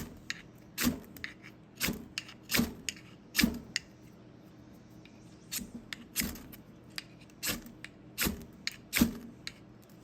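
Steel knife struck repeatedly to throw sparks into a bird's-nest tinder bundle: about ten sharp, rasping scrapes, roughly one a second, with a short pause midway.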